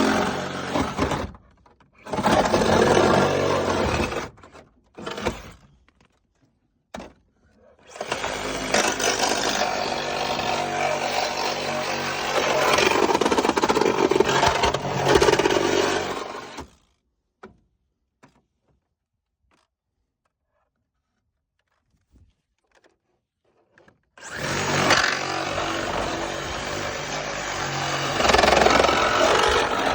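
Reciprocating saw cutting through car body metal in bursts: two short cuts near the start, a few brief spurts, then a long cut of about eight seconds. After a pause of about seven seconds the saw starts cutting again and runs to the end.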